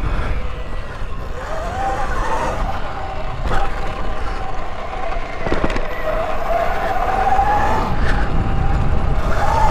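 Electric dirt bike riding, its motor whine rising and falling in pitch with the throttle, over heavy wind buffeting on the microphone, with a couple of sharp knocks from the bike over the track.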